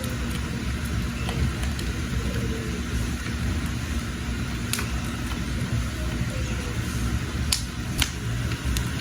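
Wood fire burning with a steady low rumble, and a few sharp crackles and pops from the burning wood, two of them close together near the end.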